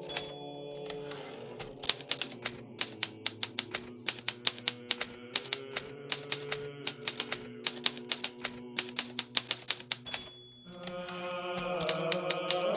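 Keys of a Hermes Baby portable typewriter striking in quick runs of clicks, with two brief high rings, one just after the start and one about ten seconds in. Steady background music plays underneath the typing and grows fuller near the end.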